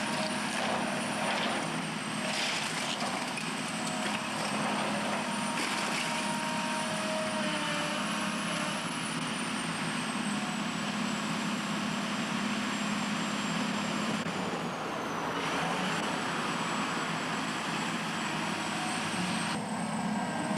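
Heavy demolition machinery running steadily, its engine noise constant, with a thin high whine that drifts up and down in pitch.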